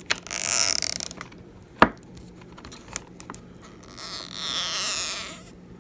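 Battery adhesive pull-strip being stretched and peeled out from under an iPhone 7 Plus battery, this time coming out in one piece. There are two drawn-out peeling rasps of about a second each, falling in pitch, one at the start and one about four seconds in, with a single sharp click in between.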